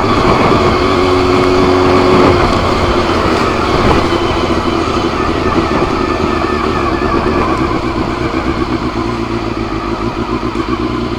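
Honda CBR400 motorcycle engine running as the bike is ridden along at low speed, over a steady rushing noise.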